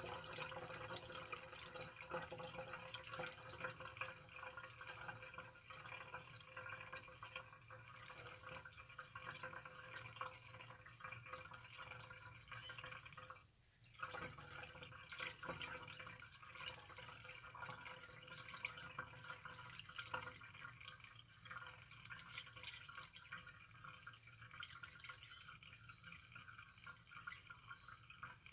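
Lamp oil pouring from a jug through a funnel into the fuel tank of a Dietz Jupiter hurricane lantern: a faint, steady trickle with dripping. The pour stops briefly about halfway through and then carries on.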